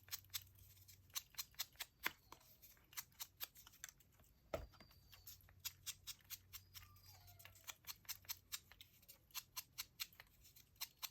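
Scissors snipping paper over and over: a quick, irregular run of short, sharp clicks, several a second.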